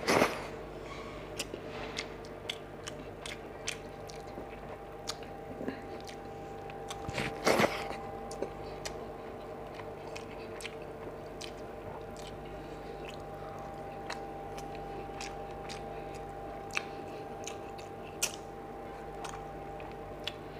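Close-miked chewing and wet mouth clicks of a person eating fish curry and rice by hand, with two louder bursts near the start and about seven and a half seconds in. A steady low hum runs underneath.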